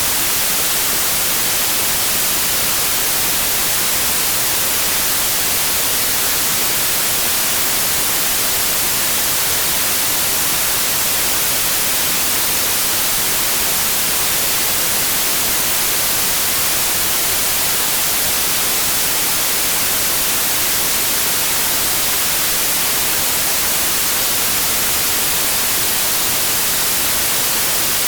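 Steady white noise: an even, unchanging hiss, strongest in the high end, with no tones or breaks.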